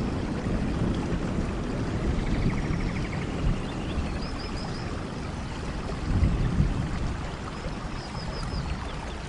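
Steady rain falling, heard as a continuous hiss with a strong low rumble that slowly eases. A short run of quick high-pitched notes sounds twice, about halfway through and near the end.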